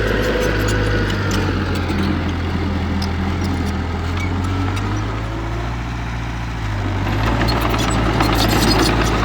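Heavy diesel engine of earthmoving equipment running steadily, easing off about six seconds in and then pulling harder again, with scattered light clicks.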